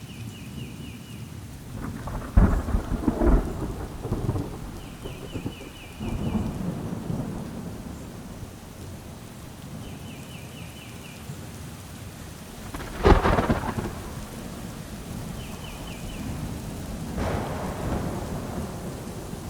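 Thunderstorm with steady rain. Sharp thunderclaps come about two seconds in, again just after, and about thirteen seconds in, with lower rolling rumbles between. A bird repeats a short, faint trill about every five seconds.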